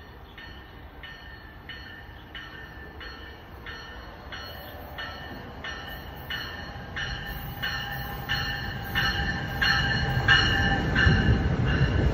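New Jersey Transit commuter train arriving: its warning bell rings steadily, about every two-thirds of a second, and grows louder as the train nears. Over the last few seconds the low rumble of the train rolling past rises and becomes the loudest sound.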